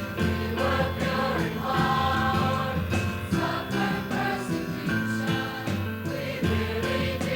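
Choir singing a Christian song with musical accompaniment, with steady bass notes beneath.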